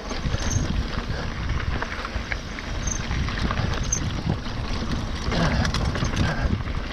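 Mountain bike rolling downhill over a loose, rocky trail: tyres crunching on gravel and small rocks, with the bike rattling and wind buffeting the microphone as a low rumble.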